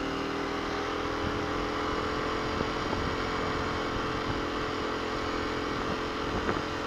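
2021 Kawasaki KLX250's single-cylinder four-stroke engine running at a steady cruising speed, with wind rush over it. The engine pitch holds even, easing down slightly near the end.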